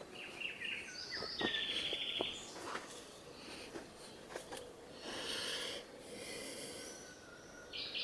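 Songbirds chirping and singing outdoors, with a rapid trill about a second and a half in and more calls later on. A faint steady hum and a few soft knocks lie underneath.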